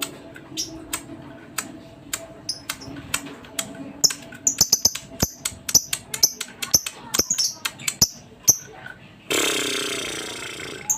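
Lovebird chirping: sharp clicks and short high chirps in quick runs, busiest from about four seconds in. Near the end comes a harsher, noisier sound lasting about a second and a half.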